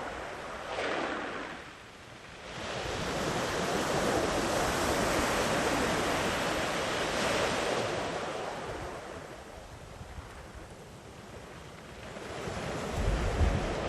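Sea waves breaking and washing up a sandy beach: the surf swells about two seconds in, stays strong for several seconds, eases off, then builds again near the end.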